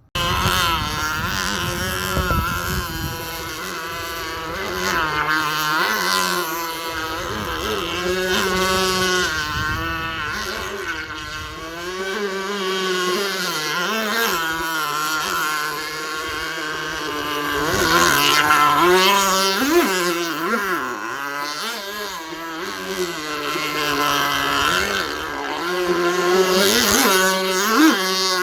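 Small nitro model engine of an RC jet ski driving its water-jet pump, running continuously with its pitch rising and falling as the throttle is worked. It cuts in abruptly at the start and is loudest in bursts about two-thirds of the way through and near the end.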